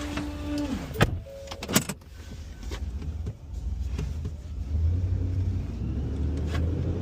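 Small rear-loader garbage truck on a Ford F-550 chassis: a steady whine drops in pitch and stops under a second in, two sharp knocks follow about one and two seconds in, then the engine's low rumble builds as the truck moves off.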